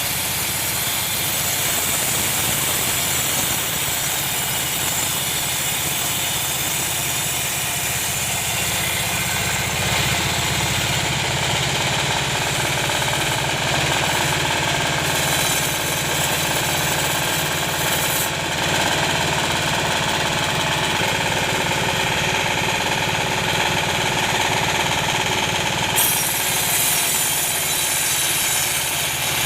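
Sawmill machinery running steadily: the saw and the engine that drives it, in a continuous mechanical drone.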